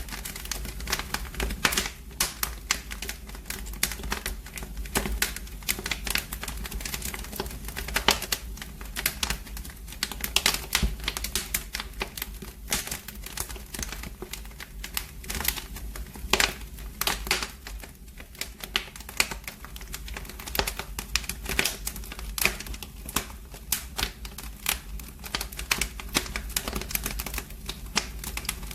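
Wood fire in a fireplace crackling: dense, irregular pops and snaps over a low steady rumble.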